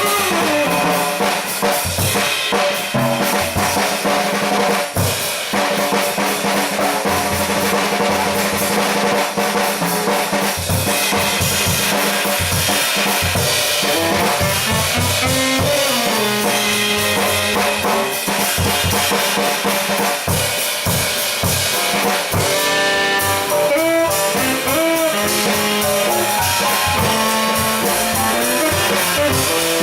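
Live jazz band playing, the drum kit prominent with snare, rimshots and bass drum under moving pitched bass and melody lines.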